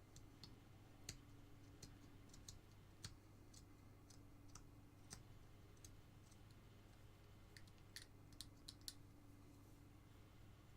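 Faint, irregular small clicks and ticks of a carving knife taking small cuts in basswood, with a cluster of quicker clicks near the end, over a low steady hum.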